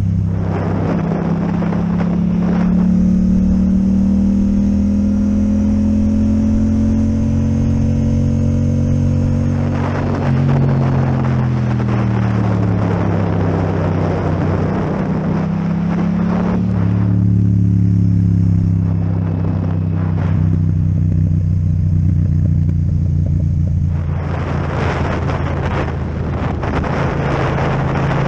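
Yamaha MT-07 parallel-twin with an Akrapovic exhaust running under way, its engine note rising and falling with throttle and gear changes, with stretches of wind rush over it.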